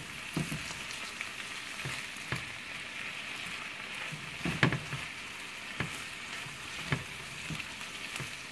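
Frozen corn, peppers and onions sizzling steadily in bacon fat and butter in an enamelled cast-iron skillet. A spatula knocks and scrapes against the pan several times as the vegetables are stirred, loudest about halfway through.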